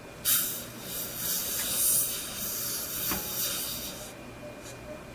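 Dental air-water syringe spraying at the tooth, a loud high hiss that starts abruptly and cuts off after about four seconds.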